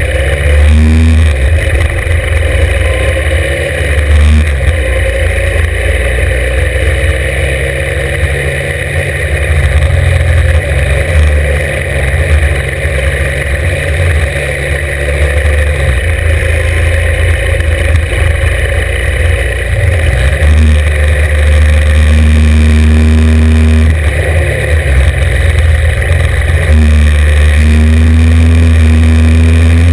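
Norton 750 Commando's parallel-twin engine revving hard through the gears. The pitch climbs and drops back at each gear change, several times over.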